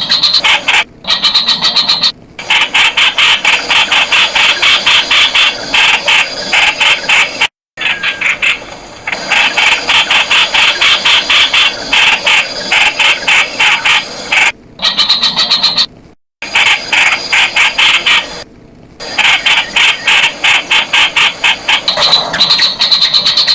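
Streak-eared bulbul calling in a rapid, continuous chatter of short, sharp notes, several a second, broken by a few abrupt gaps.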